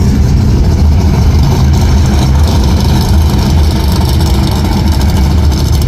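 A car engine running steadily, with a deep, even rumble.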